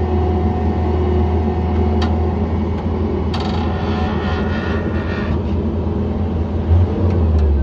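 Skid loader's engine running at a steady speed, a loud low rumble heard from the cab, with a few clicks and a brief rattling hiss in the middle.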